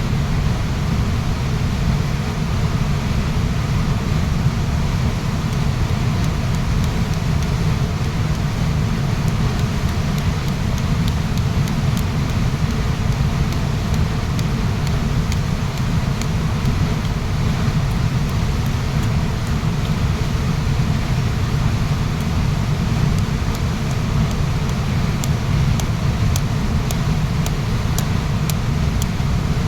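Waterfall rushing steadily, a deep, constant sound of falling water with most of its weight in the low end.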